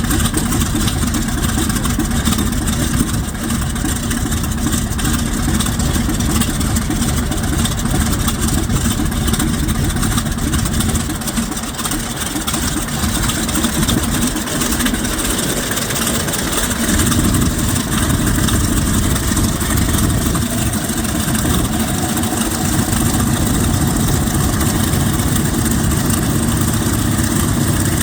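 Vought F4U Corsair's Pratt & Whitney R-2800 18-cylinder radial engine running on the ground, loud and steady, dipping slightly in the middle before settling again.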